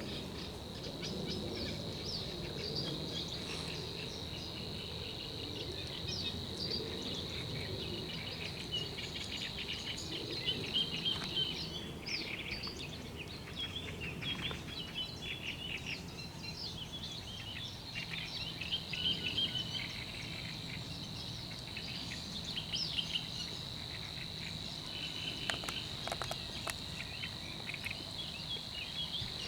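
An unidentified bird's continuous high, even reeling trill held at one pitch, fading for a few seconds about halfway through, with short chirps of other birds scattered over it.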